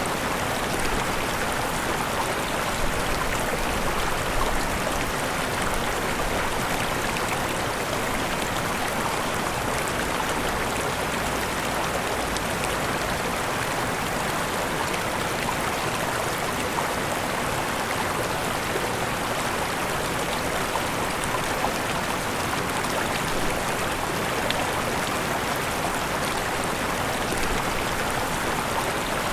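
Waterfall: water rushing and splashing steadily, without a break.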